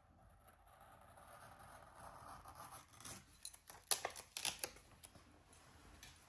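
Hands handling diamond-painting supplies: a soft rustle for the first few seconds, then a quick cluster of sharp clicks and crackles, loudest about four seconds in.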